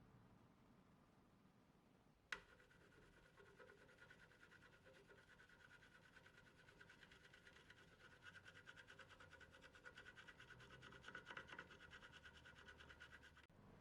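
Faint, fast scratching strokes, like a tool or abrasive rubbed back and forth over a hard surface. They start just after a single sharp click about two seconds in and cut off suddenly near the end.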